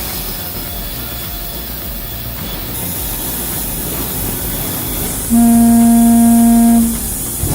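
Sawmill machinery running with a steady din. About five seconds in, a loud horn-like tone sounds on one steady pitch for about a second and a half, then fades.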